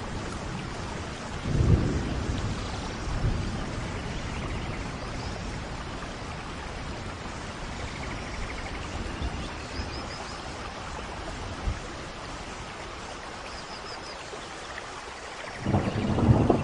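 Steady tropical rain, with low rolls of thunder about two seconds in and a louder one near the end. A few faint high bird chirps come through the rain in the middle.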